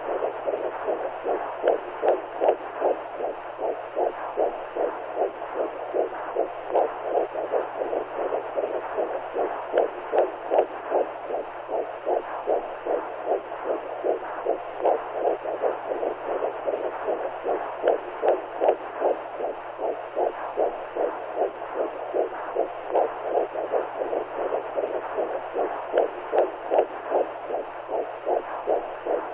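Womb sound for soothing a baby: a steady whooshing noise with a regular pulse beating a few times a second, like a mother's heartbeat heard from inside the belly, over a low steady hum.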